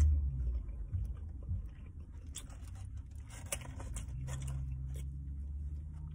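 A person chewing a mouthful of breakfast sandwich with the mouth closed: scattered soft clicks and smacks, thickest in the middle, over a steady low hum.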